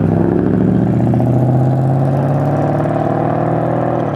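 A car engine pulling away under throttle, its note climbing a little over the first second or two and then holding steady.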